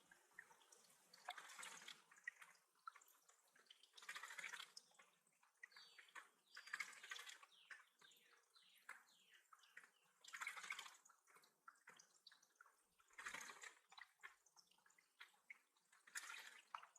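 Faint splashing and dripping water, a burst of splashing about every three seconds with small drips between.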